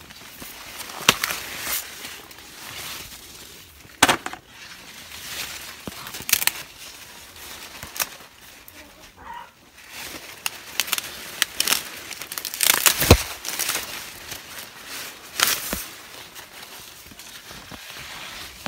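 Dry corn leaves and husks rustling and crackling as green ears of corn are handled and snapped off the stalks, with irregular sharp cracks and rustles, the loudest about a second in, about four seconds in and about thirteen seconds in.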